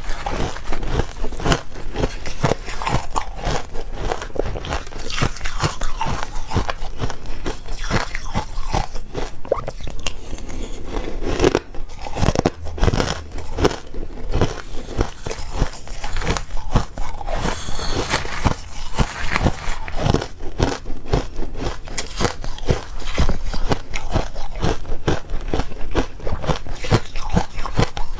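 A person biting and chewing ice, a dense run of crunching and cracking with many sharp crunches close together.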